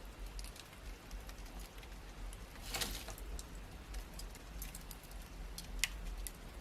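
Wood fire crackling in a fireplace: a low steady rumble of the flames with scattered sharp snaps and pops, a denser burst of crackling about three seconds in and a loud single pop near the end.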